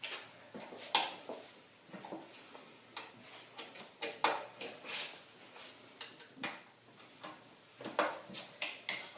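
Irregular sharp metallic clicks and clinks, about two a second, from a socket wrench being worked on the bolts of a small engine's crankcase cover.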